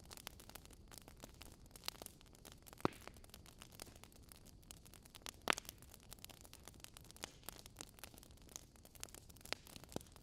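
Fire crackling: a steady run of small, irregular crackles over a soft hiss, with two louder pops about three and five and a half seconds in.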